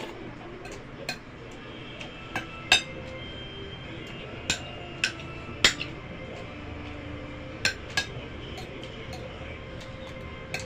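Cutlery clinking against a plate while eating, a series of sharp clinks at irregular intervals, each with a short ring.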